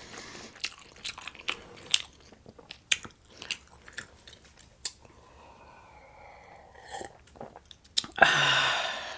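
Close-up chewing and mouth sounds of a person eating breakfast food, with many small wet clicks and smacks. Near the end comes a louder noisy rush lasting almost a second.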